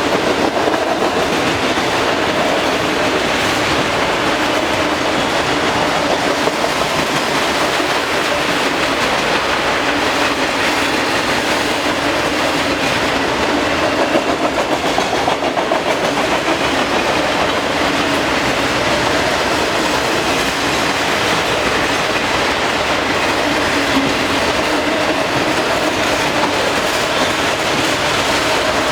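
Long manifest freight train's cars rolling past, steel wheels clattering steadily over the rails.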